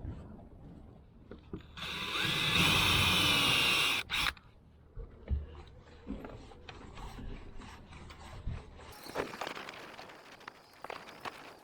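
A handheld power drill runs once for about two seconds, followed by clicks and rubbing from parts and tools being handled.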